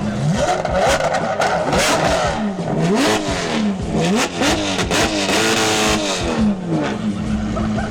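Lamborghini Aventador SVJ's naturally aspirated V12 with an aftermarket exhaust being revved in a series of quick free-revving blips, then held high for about a second and a half before dropping back to idle.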